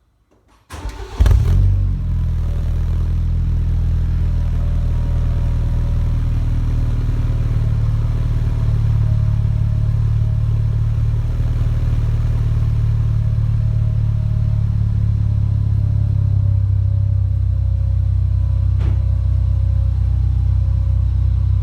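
BMW 125i (F21 LCI) with a Don Silencioso 'Roar' aftermarket exhaust, cold-started: the engine cranks and catches about a second in, flares briefly, then settles into a steady, loud cold idle.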